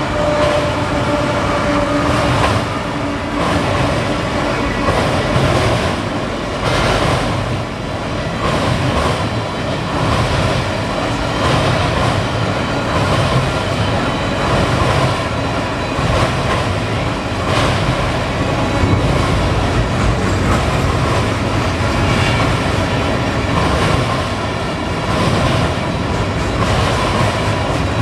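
Canadian Pacific freight train cars rolling past steadily, wheels clacking over the rail joints in an irregular rhythm.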